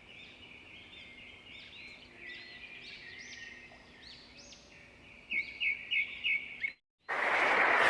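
Small birds chirping and singing faintly, with a quick run of about five louder chirps past the middle. After a brief cut to silence, a loud steady noise starts near the end.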